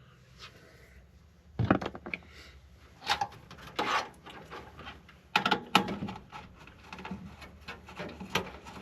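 Computer hardware being handled during a PC teardown: about half a dozen sharp knocks and clatters of parts, with scraping and rustling between them.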